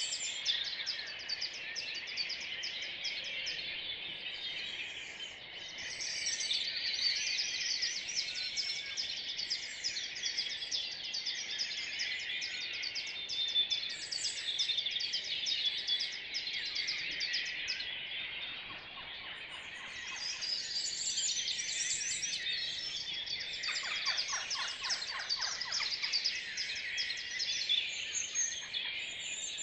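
Spring dawn chorus: many songbirds singing at once, dense overlapping chirps, whistles and trills, with a run of rapid, lower repeated notes about 24 seconds in.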